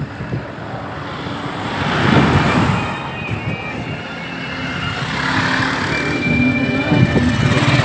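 Road traffic: vehicles passing, the noise swelling about two seconds in and again near the end.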